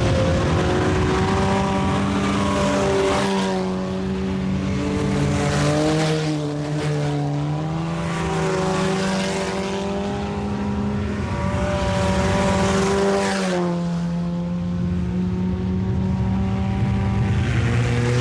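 IMCA Sport Compact race cars running on the track. Several engines overlap, their pitch rising and falling as the drivers get on and off the throttle.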